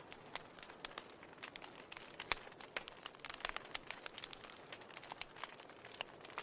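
Wood fire in a fireplace crackling: irregular sharp snaps and pops, several a second, over a soft steady hiss.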